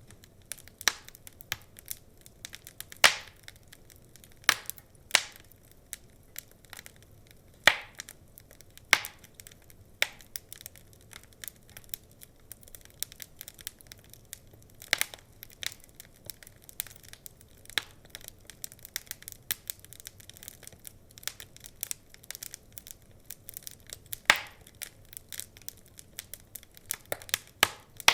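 Wood fire crackling, with irregular sharp pops and snaps, a few of them much louder, over a faint hiss.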